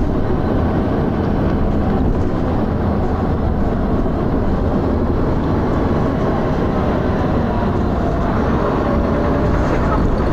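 Dennis Arrow double-decker bus heard from inside while under way: its diesel engine running with heavy, rattling thrash, and a faint whine rising near the end.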